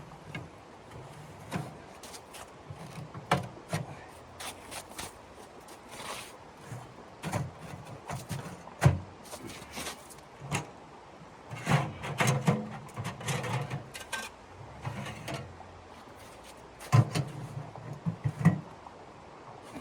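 Irregular knocks, taps and clatter of objects being handled and set down, some with dull thuds, loudest near the middle and in a quick cluster near the end.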